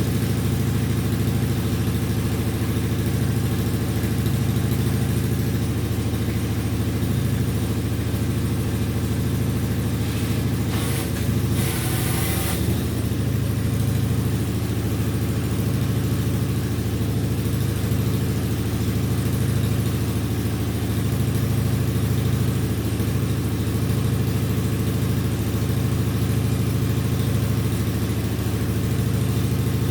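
Engine idling steadily, its first run since being stored over winter. About eleven seconds in there is a brief hiss lasting a second or so.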